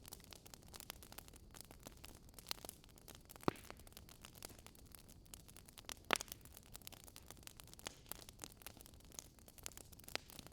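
Campfire crackling: irregular small snaps over a low hiss, with a couple of louder pops about three and a half and six seconds in.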